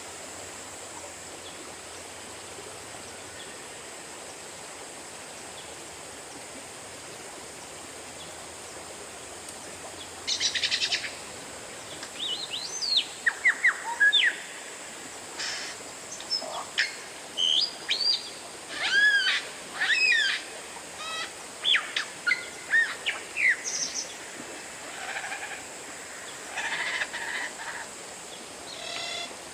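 Oriental magpie-robin (kacer) singing: after about ten seconds of only a steady hiss, a run of loud, varied phrases begins, with whistles gliding up and down, sharp chips and quick rattling trills separated by short pauses.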